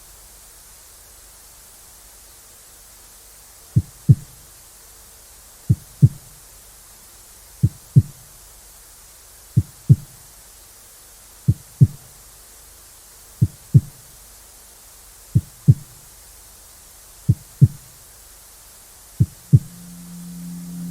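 Steady TV-static white noise hiss. About four seconds in, a heartbeat joins it: low double thumps (lub-dub), each pair about two seconds after the last. Near the end a low steady hum comes in under them.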